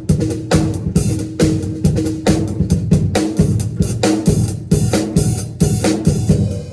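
Drum kit played in a steady beat during a sound check, several hits a second.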